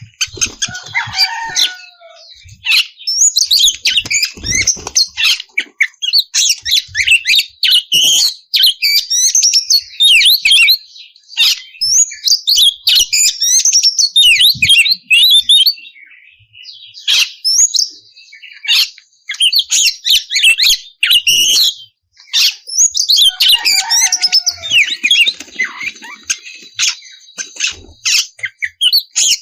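Oriental magpie-robin (kacer) singing a fast, varied song of whistles and chirps, with a few harsher, lower notes, breaking off briefly about halfway through and again a few seconds later.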